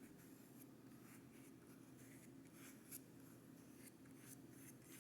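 Faint, irregular strokes of paint being brushed onto a paper sketch pad, over a low steady hum.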